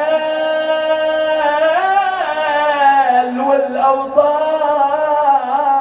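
A man chanting a Shia mourning elegy (nai) melodically, drawing each word out over long, wavering sung notes.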